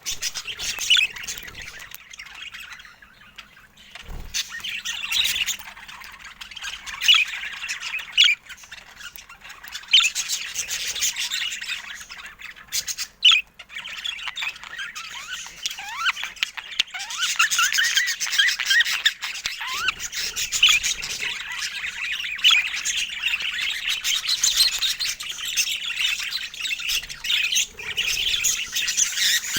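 Budgerigars chirping and warbling continuously, with sharp squawks standing out about 7, 10 and 13 seconds in.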